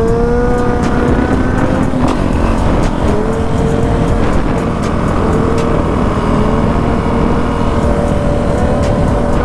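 450 dirt bike engine running at road speed, its steady drone wavering slightly in pitch, under a heavy wind rumble on the microphone.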